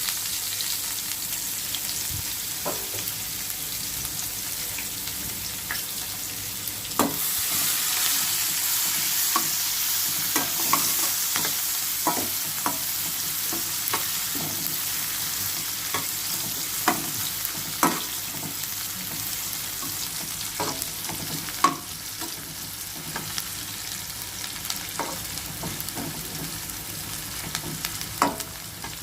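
Chopped onion and green chillies sizzling in hot oil in a pan over a tempering of mustard seeds, dals and curry leaves, stirred with a spatula that clicks against the pan now and then. The sizzle grows louder about seven seconds in.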